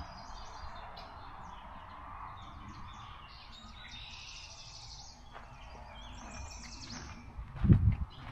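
Several songbirds singing at once, with many short, high chirps and trills overlapping. A single loud, low thud of a footstep comes near the end.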